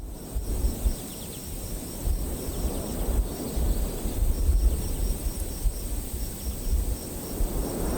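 Outdoor ambience: wind buffeting the microphone as a gusting low rumble, with insects chirping in a steady high pulse of about five chirps a second.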